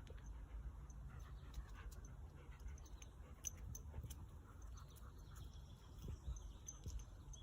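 A dog panting and moving about, faint, with a few faint bird chirps and a steady low rumble.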